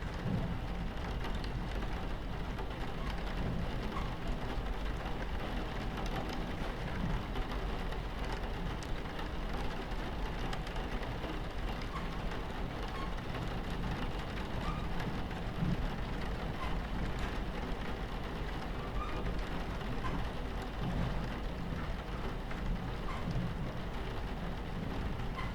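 Steady rain pattering against a train window, with scattered drops, over the constant low rumble of a train running on its tracks.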